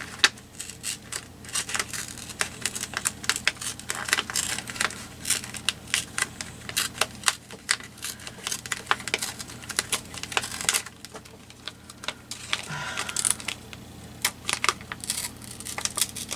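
Paper being handled on a tabletop: irregular crinkles, rustles and light taps and clicks, with a longer rustle near the end.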